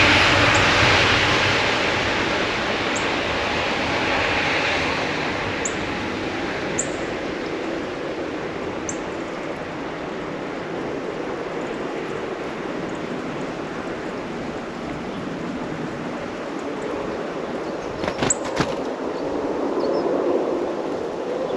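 Airplane engine noise fading away over the first several seconds, leaving a steady outdoor hiss. A few faint, short, high bird chirps come through it, and a quick cluster of sharp clicks or wing flutters sounds near the end.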